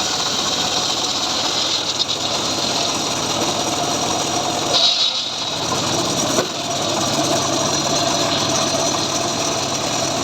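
Chainsaw engine running steadily under load while cutting sengon wood, its level dipping briefly about halfway through.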